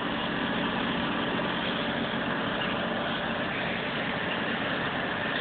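Truck engine running with a steady, even drone.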